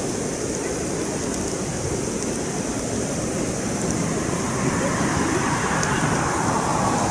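Campfire burning with a few faint crackles. From about halfway through, a distant engine-like noise grows louder and slides slowly down in pitch, like a vehicle or plane passing.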